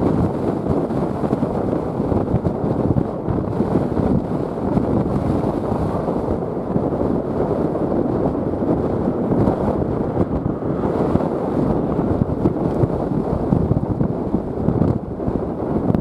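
Strong, gusty wind buffeting the microphone: a dense, steady low rush with small irregular peaks and no clear pitch.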